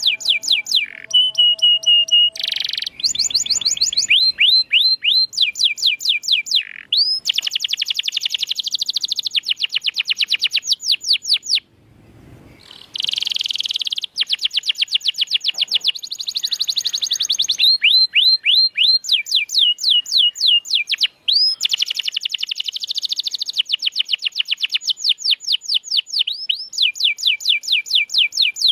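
Domestic canary singing: fast trills of rapidly repeated notes, many of them quick downward sweeps, in phrase after phrase with short breaks, one of them about twelve seconds in.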